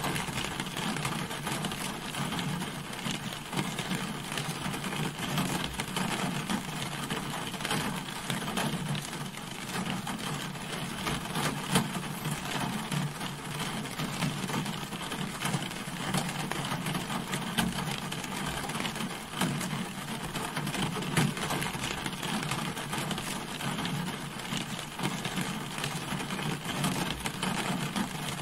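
Steady rain drumming on a car's body, a dense patter of drops with a few louder single hits.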